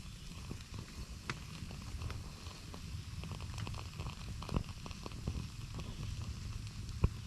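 Trioxane fuel bar burning under a steel canteen cup of water in a canteen-cup stove: scattered small ticks and crackles over a steady low rumble.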